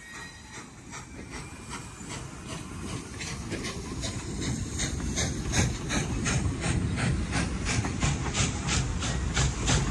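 Norfolk and Western class J 611 steam locomotive and its train rolling past: a soft steam hiss at first, then a rumble and a rhythmic clickety-clack of wheels over rail joints, about three clicks a second, growing louder as the tender and passenger cars go by.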